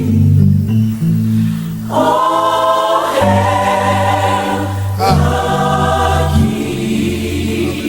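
Gospel choir singing sustained chords over keyboard and bass accompaniment, with fresh vocal entries about two, three and five seconds in.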